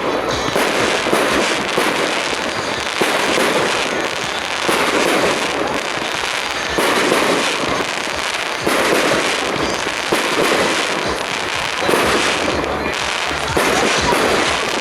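Fireworks display: a dense, continuous barrage of bangs and crackling, with no pauses and swells every couple of seconds.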